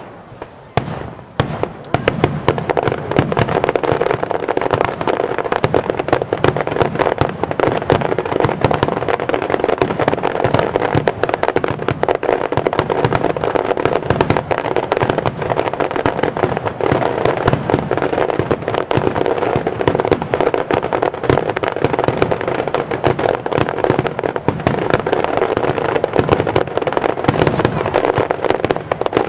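Fireworks barrage: a few separate bangs, then from about two seconds in a dense, unbroken stream of rapid bangs and crackles.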